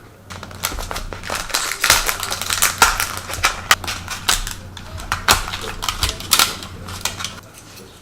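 A rapid, irregular run of sharp clicks and clacks over a steady low hum, starting about half a second in and stopping near the end.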